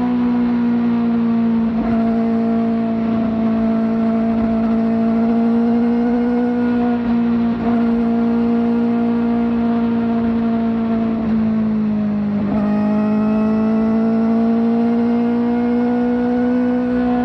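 Kawasaki ZX-4RR inline-four, fitted with a slip-on exhaust, holding a steady high-revving note under way. The pitch dips briefly a little after twelve seconds and climbs back.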